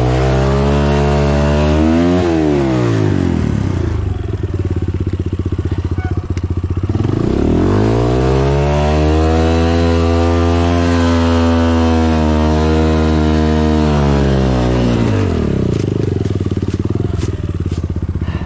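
Dirt bike engine revved hard twice, a short rise and fall and then a long high rev that eases back to idle, as the rear wheel spins on a muddy hill climb and the bike stays stuck partway up.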